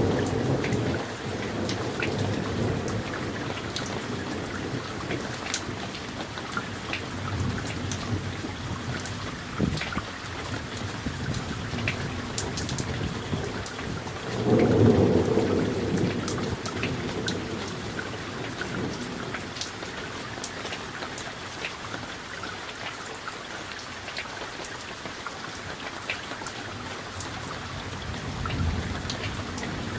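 Summer thunderstorm: steady rain with many separate drop hits, and rolls of thunder, a loud rumble about halfway through, a fading one at the start and fainter ones in between and near the end.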